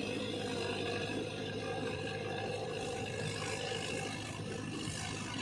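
Mahindra 595 tractor's diesel engine running steadily under load while it drives a rotavator through mud.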